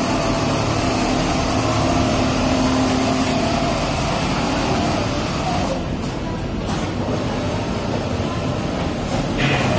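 Automatic CNC template sewing machine running, a steady fast mechanical chatter of needle stitching over the hum of other machinery; the high hiss dips briefly about six seconds in.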